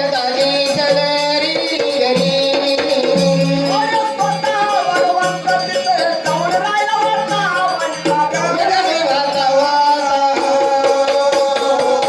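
Marathi folk devotional music: a steady held drone under a wavering melody line, with a hand drum beating regular strokes and small jingling percussion keeping time.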